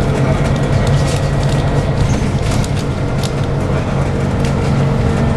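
Scania OC09 9.0-litre biogas engine of a double-decker bus heard from inside the bus, running steadily under way, with scattered light rattles and clicks from the body.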